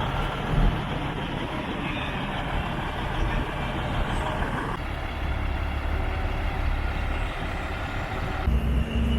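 Heavy trucks' diesel engines running steadily at low revs. The sound changes abruptly about halfway through and again near the end.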